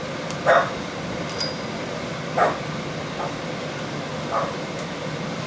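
A dog barks four times, short single barks spaced unevenly, over the steady hum of a fan, with a few faint metal clicks.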